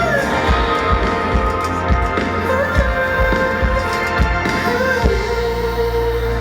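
Live pop song played through a stage sound system: a sung melody of long held notes over a drum beat and bass. The beat drops out about five seconds in, leaving a sustained bass note under the last held note.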